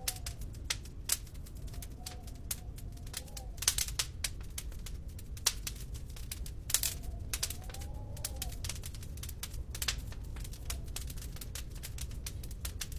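Wood fire crackling in a fireplace: irregular sharp pops and snaps over a low, steady rumble of the flames. A faint wavering tone rises and falls three times behind it.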